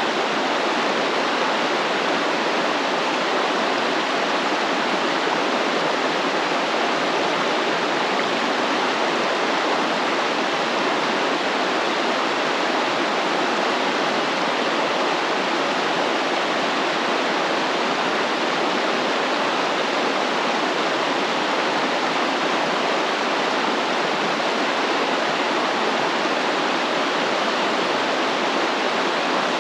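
A flowing stream: steady, even rushing of running water with no breaks or changes.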